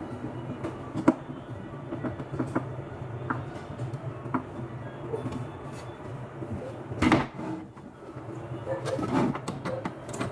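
Light clicks and knocks of parts being handled and fitted during TV setup, over a steady low hum, with a louder knock about seven seconds in.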